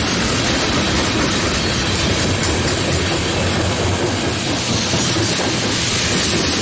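Coal train's steel-wheeled gondola cars rolling past, a loud, steady rumble and clatter of wheels on rail.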